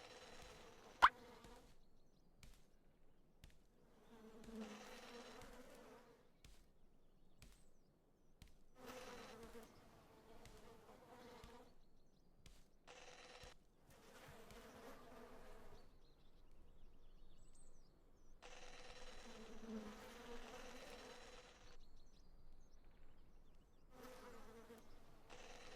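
A steady-pitched buzz, like a flying insect's, coming and going in spells of one to three seconds, with one sharp click about a second in.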